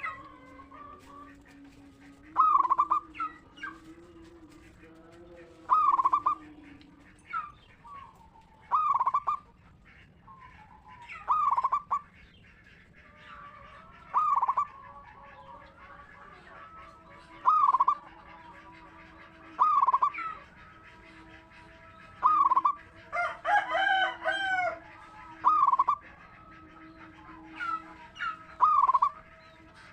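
Zebra dove (perkutut) cooing, its song phrase repeated about every three seconds, with fainter chirping from other birds behind it and one longer, fuller call about two-thirds of the way through.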